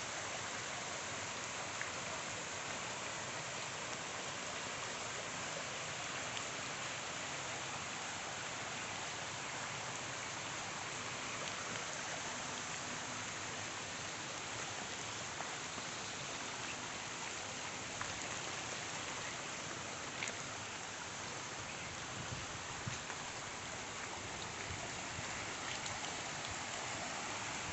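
Steady rain falling: an even, unbroken hiss with a few faint drop ticks here and there.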